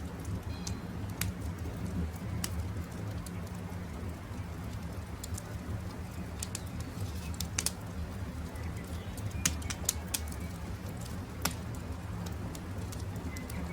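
Campfire crackling, with sharp irregular pops over a steady low rumble, and birds chirping faintly in the background.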